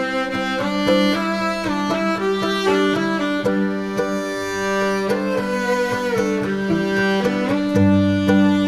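Instrumental music: violin playing a melody of changing notes over a steady held low note.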